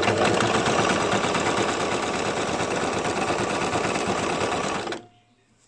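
Electric home sewing machine running steadily as it stitches fabric, its motor and needle going at an even speed, then stopping suddenly about five seconds in.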